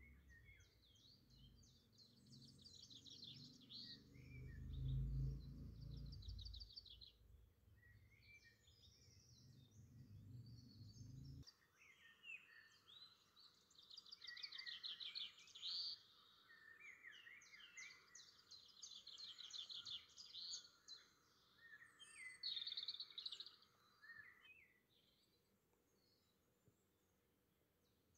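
Small birds singing in quick high trills and chirps, with a low rumble under the first third that peaks and then cuts off abruptly; the birdsong fades out near the end.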